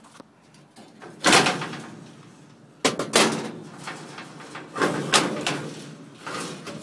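A series of heavy clunks and bangs from the old cab-over truck's cab being handled, each sharp hit dying away quickly, spread across several seconds.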